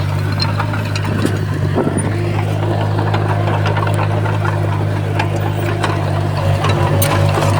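Komatsu D51PX crawler bulldozer's diesel engine running steadily, with scattered knocks and clicks over the drone.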